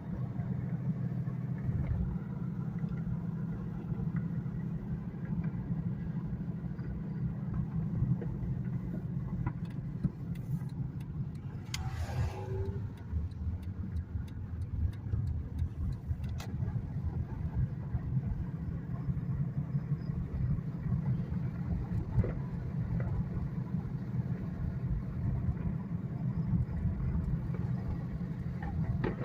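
Steady road and engine rumble inside a moving car. Faint scattered crackles of distant fireworks come through near the middle, and a single falling whistle sounds about twelve seconds in.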